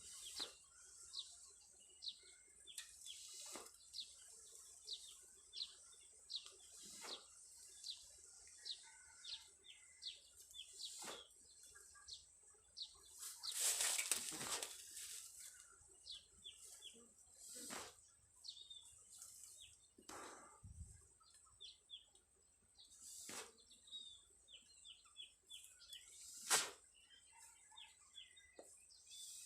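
A small bird calling outdoors: short, high, falling chirps about twice a second over a steady high-pitched whine. A brief rustle comes about fourteen seconds in, and a sharp click near the end.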